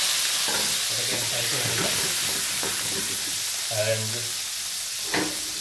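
Sliced onion and capsicum sizzling in hot oil in a frying pan: a steady frying hiss that eases slowly.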